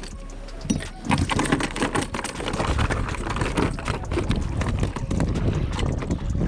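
A hooked rock bass thrashing in a kayak, making irregular knocks and rattles against the hull amid handling noise. It starts about a second in.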